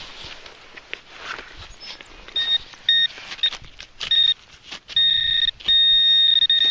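Metal detector beeping on a buried target: four short beeps of one high tone, then two longer steady tones near the end.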